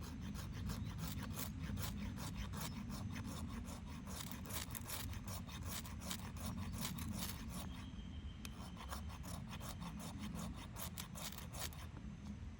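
Rapid, rhythmic rasping strokes of a hand tool working wood, as in preparing wood or birch bark for a campfire, with a short pause about two-thirds of the way through and stopping shortly before the end.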